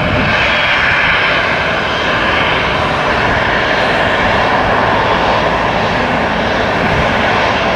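Boeing 737 jet engines at takeoff thrust: a loud, steady roar of engine noise with no breaks.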